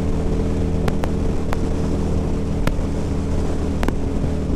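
Harley-Davidson V-Rod V-twin engine running at a steady speed under way, heard through a helmet microphone with wind rushing over it. A few sharp ticks are heard about a second in and again near the end.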